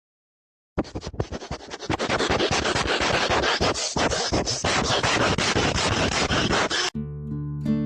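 Rough scratching and rubbing noise with many fast clicks, starting suddenly about a second in, then cut off near the end by strummed acoustic guitar music.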